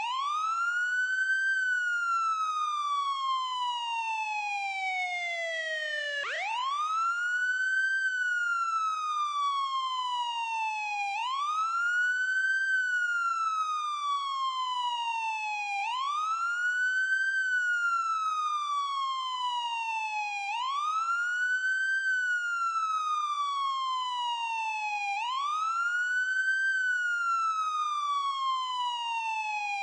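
Ambulance siren sound effect on a wail cycle. Each cycle is a quick rise in pitch followed by a slow falling glide, repeating about every four and a half seconds, six times over, with no break.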